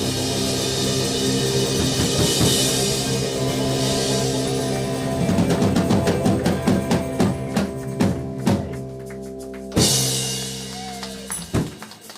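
Live rock band playing the end of a song: a drum kit plays a busy fill over held bass and guitar notes, then a final crash hit about ten seconds in that rings out and dies away.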